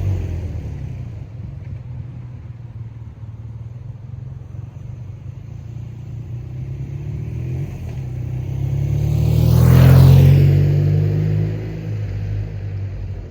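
BMW R 12 G/S boxer-twin motorcycle with an aftermarket exhaust riding past. It fades away at first, then approaches, passes closest about ten seconds in and draws away again.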